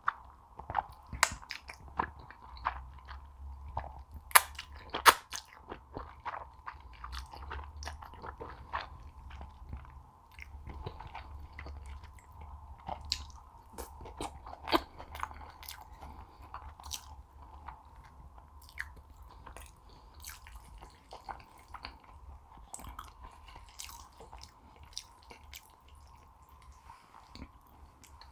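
Close-miked chewing and biting of noodles, with many sharp, irregular mouth clicks and smacks.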